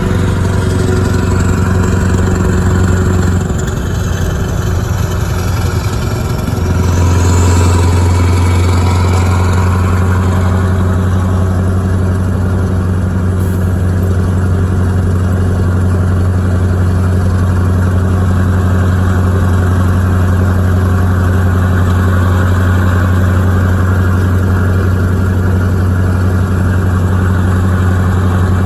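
Scania R500's V8 diesel engine running with a strong, steady low note. It drops back briefly a few seconds in, then picks up again louder and runs steadily for the rest.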